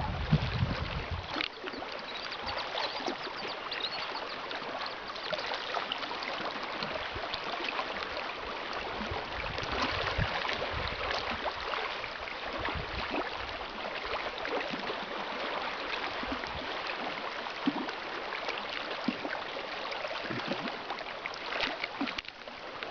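Steady lapping and trickling of water, full of small splashes and ticks, with a low rumble in the first second or two.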